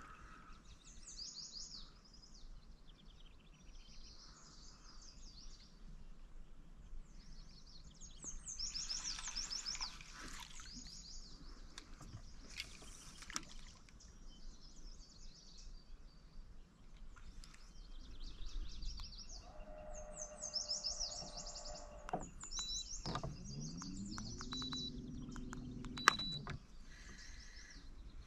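Songbirds singing, phrase after phrase of short high trills and chirps, over a quiet outdoor background. Late on there is a brief low hum that rises in pitch and then holds, and one sharp click.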